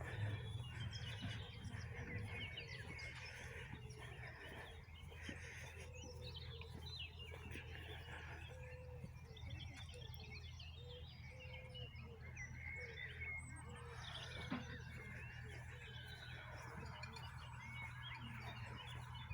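Several songbirds chirping and singing, many short chirps and trills throughout, faint over a steady low hum. One short knock about fourteen seconds in.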